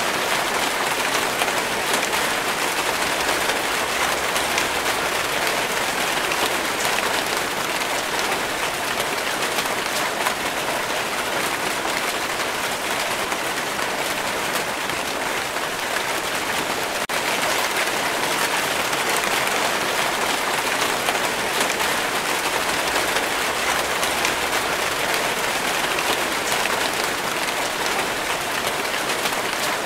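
Rain falling steadily: an even, unbroken hiss of many drops.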